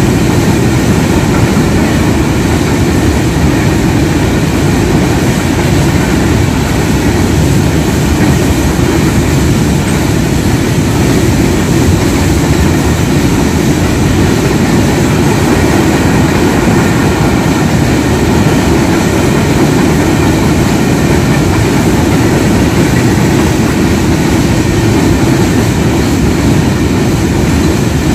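A train running on the rails: a loud, steady rumble that holds without a break, with a few faint steady tones above it.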